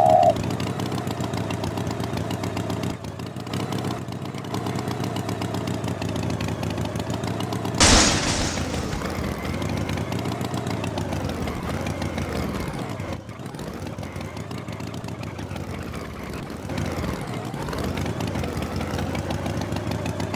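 An engine running steadily, with a sudden loud burst about eight seconds in and its pitch sweeping up and down in the second half.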